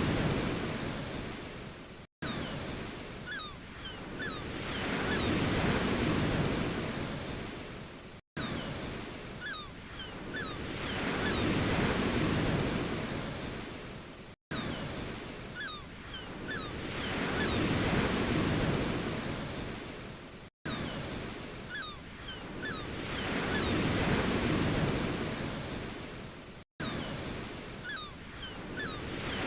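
Ocean waves surging in and washing back, each swell rising and falling about every six seconds. It is a short recording played as a loop, with a brief cut to silence each time it repeats.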